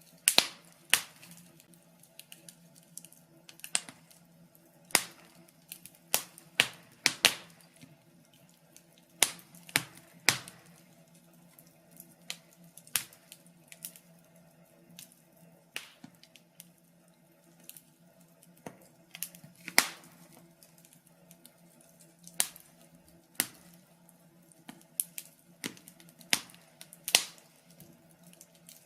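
Wood fire crackling: irregular sharp pops and snaps, a few of them much louder, over a faint steady low hum.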